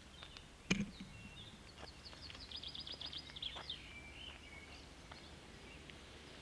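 Birds singing faintly in the background, including a fast trill of repeated high notes about two and a half seconds in. A single sharp knock under a second in is the loudest sound.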